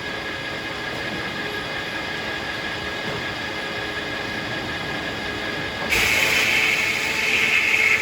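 Circular sawmill running steadily with the blade spinning free. About six seconds in, the blade goes into a hackberry log and the sound jumps louder and higher-pitched for about two seconds while it cuts.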